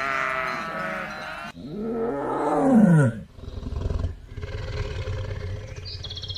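Animal calls: a high wavering call that cuts off about a second and a half in, then a loud call sliding down in pitch, followed by low rumbling growls.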